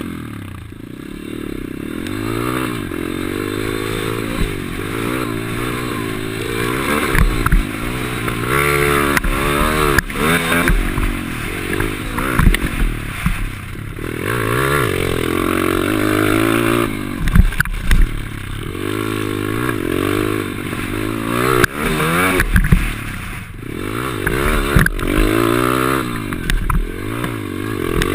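Pit bike engine revving up and falling back over and over as the rider accelerates and shifts gear, with occasional knocks and clatter from the bike.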